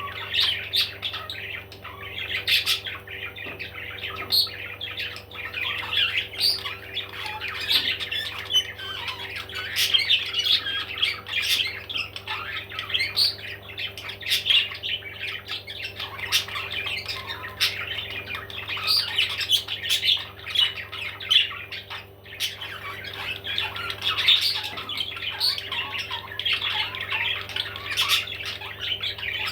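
Several parrots squawking and chattering continuously, many calls overlapping, over a steady low hum.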